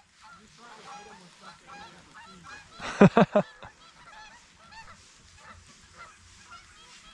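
A flock of geese honking, many overlapping calls, with a louder run of three or four honks about three seconds in.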